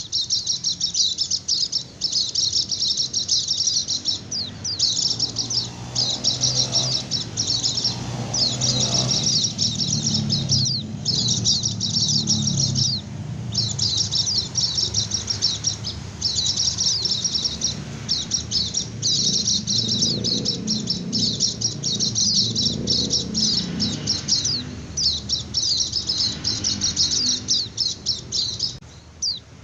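White-eye (pleci) singing its 'ngecir' song: rapid, high-pitched twittering runs, one after another with short breaks between them.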